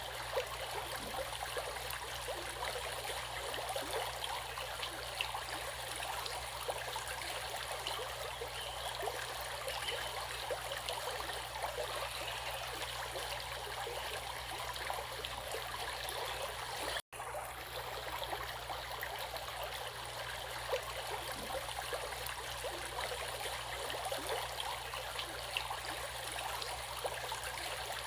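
Stream water flowing and babbling steadily, with many small splashes and trickles. The sound drops out for an instant about seventeen seconds in.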